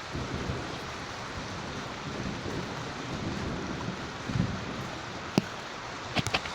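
Thunderstorm: a steady hiss of heavy rain with low, uneven rumbling of thunder that swells briefly about four and a half seconds in. A few sharp clicks come near the end.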